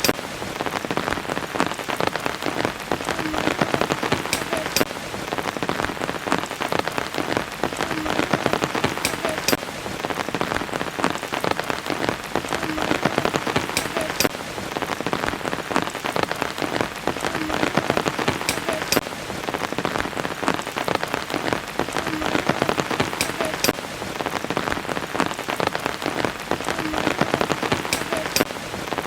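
Steady rain falling on a surface: a dense patter of drops with sharper individual drips. The same few-second stretch repeats about every five seconds, as a loop.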